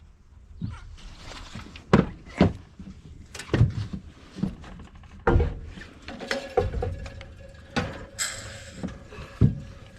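Irregular metal knocks and clunks of hand tools and engine parts being handled, with some ringing in the second half, as a small engine is fitted onto an air compressor.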